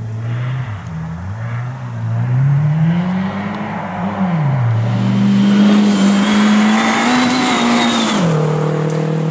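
Rally hatchback engines revving hard, the note climbing and dropping with each gear change. A Renault Super 5 then accelerates past close by, and its engine note drops suddenly in pitch as it goes by, about eight seconds in.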